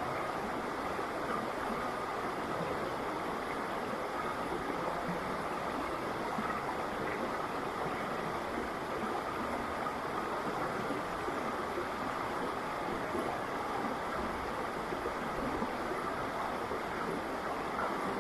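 River water flowing: a steady, even rushing sound.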